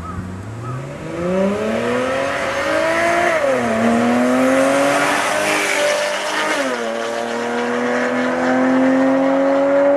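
Porsche 997 Carrera's flat-six engine breathing through a Kreissieg valvetronic cat-back exhaust, accelerating hard: the note climbs, drops sharply at two quick PDK upshifts about three and a half and six and a half seconds in, then climbs steadily again.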